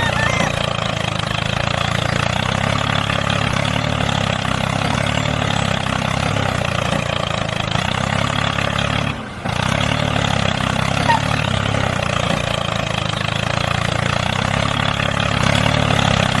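Tractor engine running steadily while pulling a plough, with a brief drop in sound about nine seconds in.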